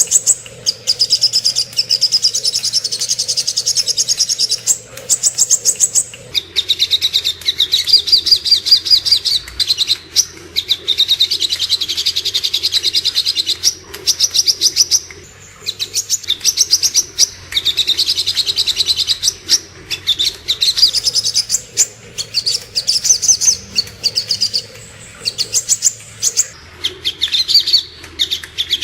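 Sogok ontong bird singing: fast, high trills of rapid repeated notes in phrases of one to three seconds with short breaks, some phrases pitched higher and others lower.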